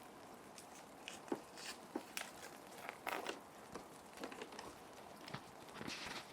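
Plastic sheet protectors being handled, with irregular small crinkles and clicks and a couple of brief swishes about three seconds in and near the end, over a faint steady rain ambience.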